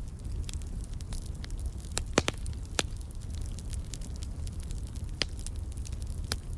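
Wood fire crackling: a steady run of small snaps over a low rumble, with a few louder pops, the loudest a quick cluster about two seconds in.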